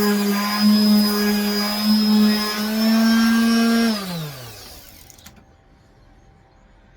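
Electric sander running steadily with a 180-grit sheet on a wooden table, then switched off about four seconds in, its hum falling in pitch as the motor winds down.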